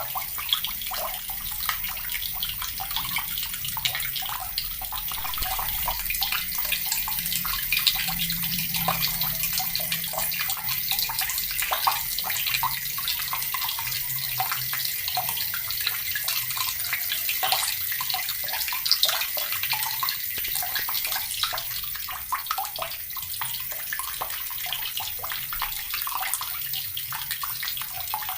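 Water running steadily from a tap and splashing into a basin, a continuous dense patter of droplets.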